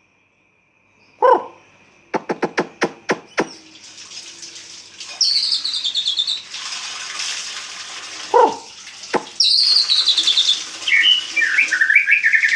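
White-rumped shama singing: short phrases of whistled, gliding notes and a few loud short calls, with a quick run of about eight sharp clicks about two seconds in, over a steady hiss.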